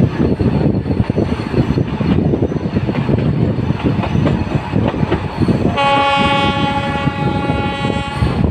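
Nilgiri Mountain Railway metre-gauge train running along the track with a steady rattling clatter, and its horn sounding once, held for about two and a half seconds, near the end.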